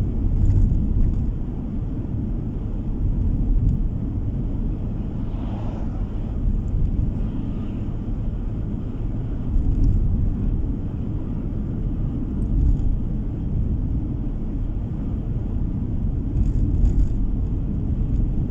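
Steady low rumble of a car driving along the road: engine and tyre noise heard from inside the cabin.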